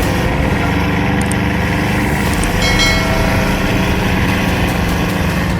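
Heavy truck engine running steadily, with a brief high-pitched tone about three seconds in.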